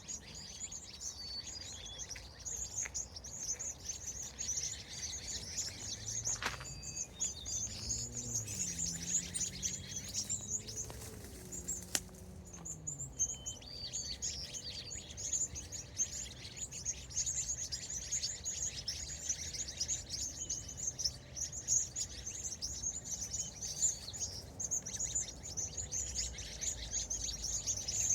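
Many small birds chirping and twittering at once, a dense, continuous high chatter with a few clearer single whistles mixed in. A low engine-like hum rises and falls for a few seconds near the middle.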